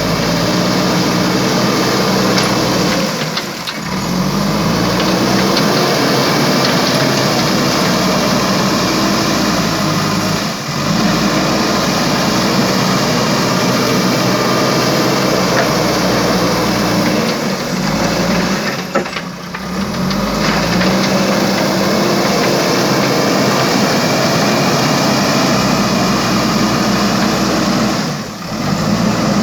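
Diesel engine of a JCB backhoe loader running steadily under work. The note dips briefly four times, with small shifts in pitch.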